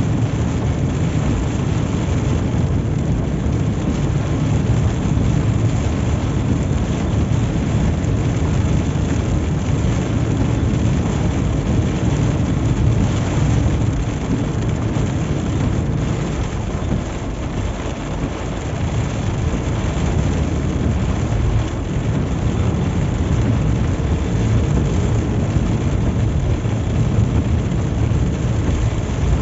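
Steady road noise of a vehicle driving on a highway in heavy rain, the rain and the engine rumble running together.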